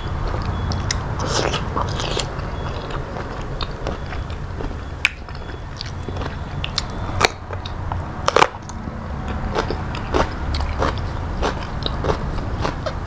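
A person chewing and biting food close to the microphone, with irregular sharp crunches and mouth sounds over a steady low hum.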